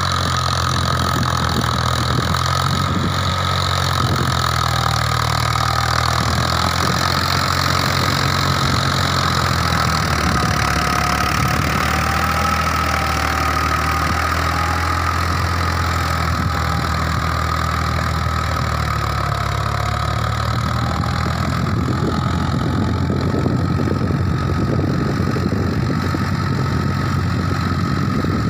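Swaraj 963 FE tractor's diesel engine running steadily at a constant speed.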